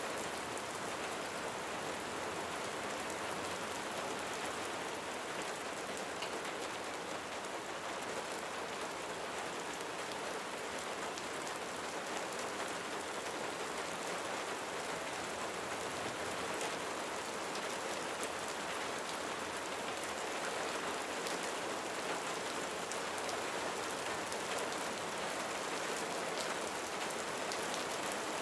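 Steady rain falling on a roof: an even hiss of rainfall with scattered individual drop ticks, and no thunder heard.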